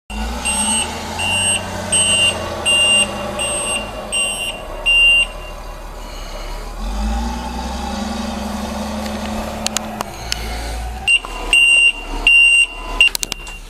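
Snow plow truck's backup alarm beeping, about one and a half beeps a second, over its engine running. The beeping stops about five seconds in while the engine grows louder, then starts again near the end.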